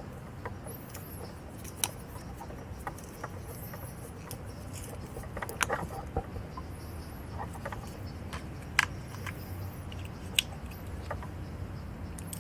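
Scattered light clicks and metallic taps of small parts and hand tools being handled during motorcycle ignition switch reassembly, over a steady low hum. The sharpest clicks come about two seconds in and twice near the end.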